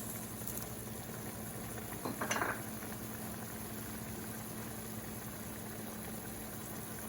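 Pot of chicken adobo braising liquid simmering with a steady bubbling hiss, and a brief louder clatter about two seconds in.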